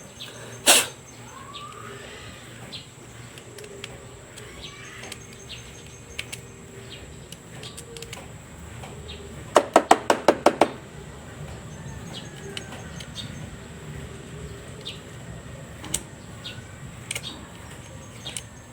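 Small hard clicks and taps from hand work on a motorcycle spark plug, with a quick run of about eight sharp clicks about ten seconds in. Faint bird chirps in the background.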